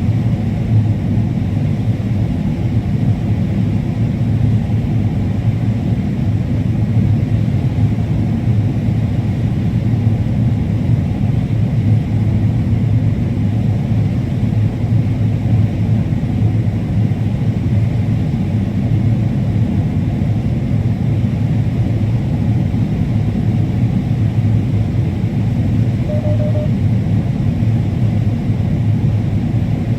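Combine harvester running steadily while harvesting corn, a constant low drone.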